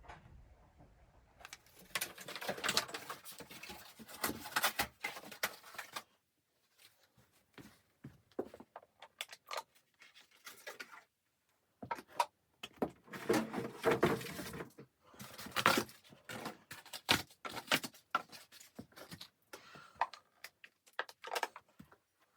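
Rustling and handling noises with many short clicks and knocks, busiest in two stretches of a few seconds each, about two seconds in and again about twelve seconds in, with sparser clicks between them.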